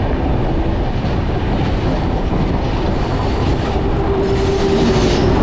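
Running noise of an express passenger train heard from an open coach door: wheels on the rails and rushing air, loud and steady. About four seconds in, an oncoming train approaches on the next track, a steady tone sounds for about a second and a half, and the noise grows brighter.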